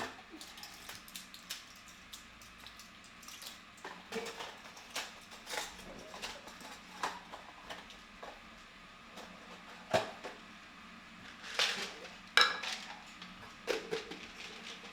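Irregular clinks and knocks of dishes and cutlery being handled, with a few louder ringing clinks late on.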